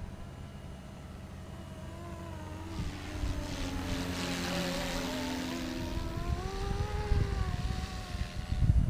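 Radio-controlled 470-size scale Cobra helicopter in flight, its motor and rotor whine dipping and rising in pitch as it manoeuvres. A rotor hiss swells loudest about four to five seconds in.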